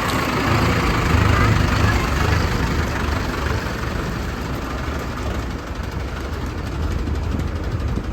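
Diesel engine of a Mahindra Arjun Novo 605 DI tractor with a mini combine harvester attachment, running steadily with a deep rumble that swells briefly about a second in.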